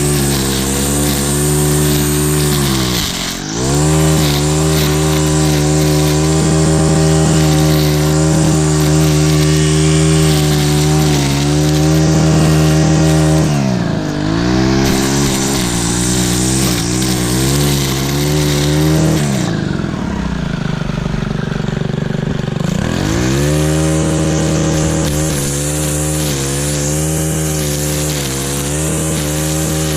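An engine running at a steady speed, its revs dipping and picking back up about three seconds in and again near the middle. Later it drops for a few seconds before climbing back to speed.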